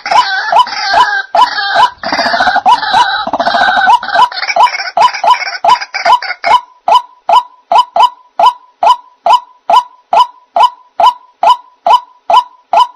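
White-breasted waterhen (ruak-ruak) calls played as a trapping lure: a harsh, croaking chatter for the first six seconds or so, then an even run of single short notes, about three a second.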